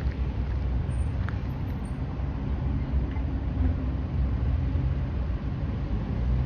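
Car engine running steadily at low revs, a deep low rumble.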